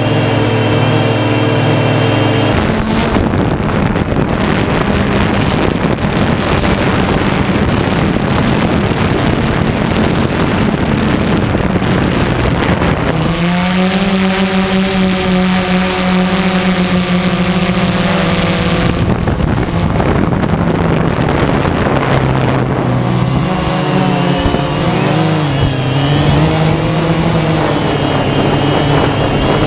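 DJI Phantom 2 quadcopter's propellers and motors running in flight: a steady buzzing drone whose pitch jumps abruptly several times and wavers up and down near the end as the throttle changes.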